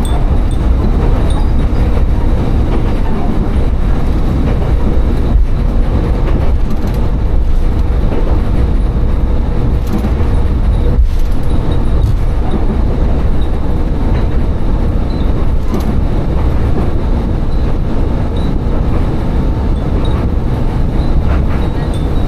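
Tsugaru Railway diesel railcar running steadily along the line, with a continuous low rumble of engine and wheels and occasional faint clacks.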